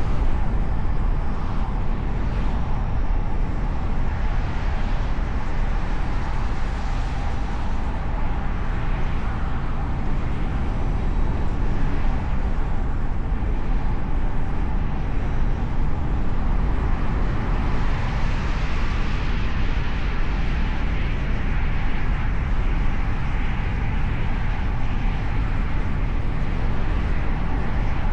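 Steady rumble and hiss of a car driving on city streets: tyre, wind and engine noise picked up by a hood-mounted camera. The noise swells briefly around eighteen to twenty seconds in.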